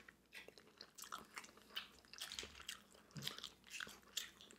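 Faint, close-miked chewing of steamed clam meat: soft, irregular wet clicks of the mouth and lips.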